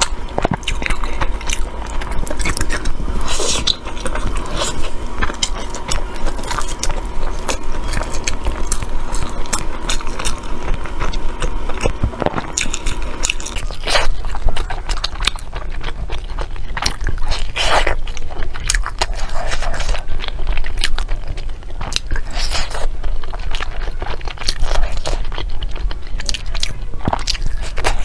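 Close-up eating sounds of someone biting into and chewing glutinous rice dumplings (zongzi) filled with meat, with many short mouth clicks. A steady faint background tone runs under the chewing until about halfway through.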